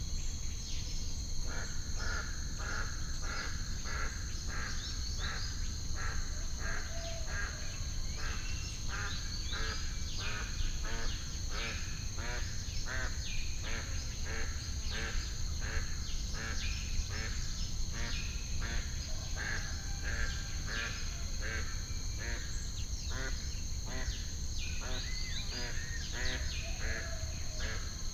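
A flock of birds calling over and over, many short chirping calls coming about twice a second, laid over a steady low rumble and a steady high insect-like buzz.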